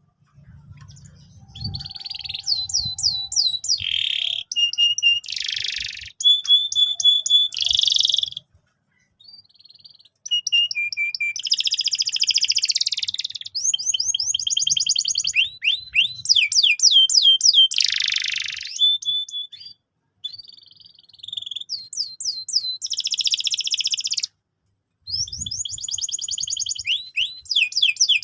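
Canary singing: long phrases of rapid trills and rolls of repeated high notes, broken by short pauses.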